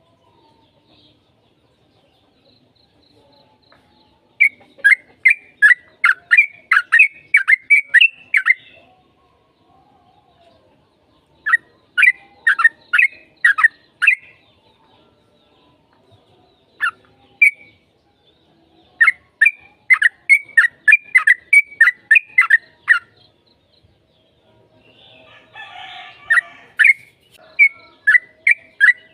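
Yellow-vented bulbul (trucukan) singing in rapid, chattering bouts of sharp notes, each bout a few seconds long with short pauses between. A rougher, scratchier call comes in about two-thirds of the way through.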